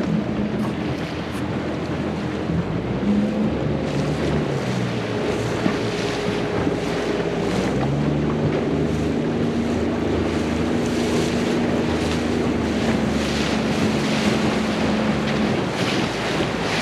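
Motorboat engine running, its pitch shifting a few times, with wind buffeting the microphone and water rushing past the hull.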